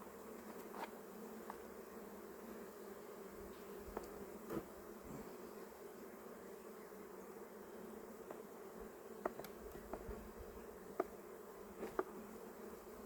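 A honeybee colony buzzing steadily around an opened hive, with a few sharp clicks scattered through it.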